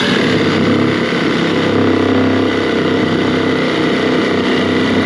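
Milwaukee M12 Hackzall one-handed reciprocating saw running steadily at full speed, its demolition blade cutting through a wooden board. It starts abruptly and stays loud and even.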